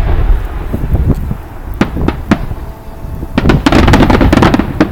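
Aerial fireworks going off close by: a deep rumble dies away, two sharp bangs come about two seconds in, and a rapid run of cracks follows near the end. So close to the launch site that the launch reports sound like the bursts themselves.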